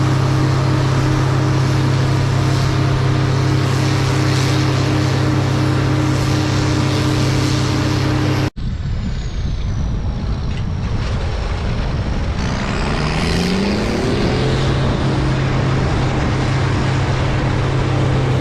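Case International 16-series Axial-Flow combine running at harvest, a loud steady engine drone. Just past halfway the sound cuts abruptly to a noisier recording of a combine, in which a pitch rises for about two seconds before the steady drone returns.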